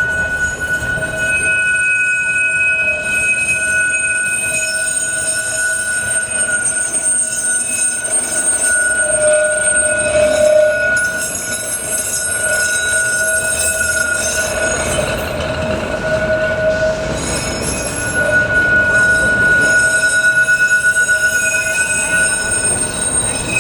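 Heritage tram running on the rails, its steel wheels squealing in long, sustained high tones over the rumble of the running gear.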